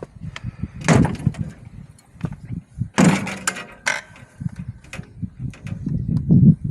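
A series of sharp metallic clanks and rattles from hand work on a wire fence, the loudest about a second in and about three seconds in, the second with a brief ringing.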